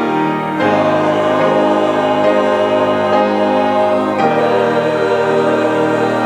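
Choir singing held chords of a sacred song with keyboard accompaniment; the chord changes about half a second in and again near four seconds.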